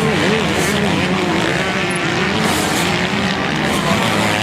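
Motocross motorcycle engines racing, their revs rising and falling constantly as the bikes work around the track, over a steady drone of several engines.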